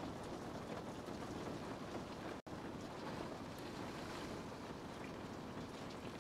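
Steady rain, an even hiss with no other events, that drops out for an instant about two and a half seconds in.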